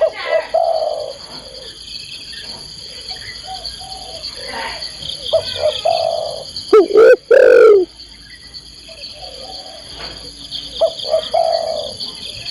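Spotted doves (tekukur) cooing, a female calling to the male, with a loud, close call about seven seconds in between softer coos. Steady insect trilling runs behind.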